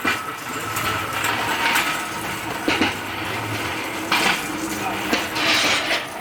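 Engine hoist being worked with the engine hanging from it: a steady rolling, scraping rumble of metal with several sharp metal knocks and clanks.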